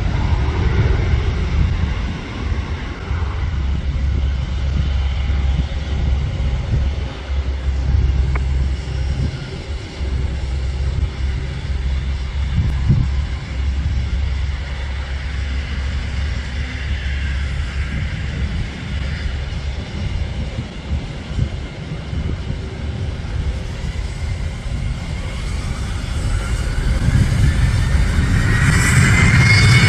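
Steady low rumble of jet aircraft at an airport. In the last few seconds a rising whine swells as a jet's engines come closer.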